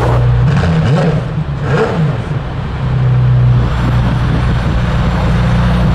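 McLaren Senna's twin-turbo V8 running as the car is moved onto the transporter's upper deck: the pitch rises and falls a couple of times in the first two seconds, then it idles steadily.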